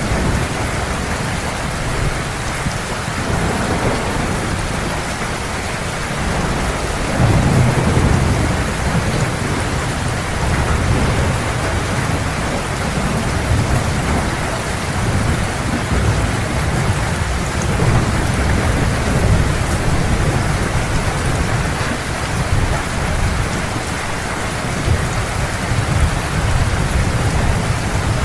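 Heavy rain pouring steadily, with thunder rumbling low underneath; a louder roll of thunder comes in about seven seconds in and keeps rumbling on and off.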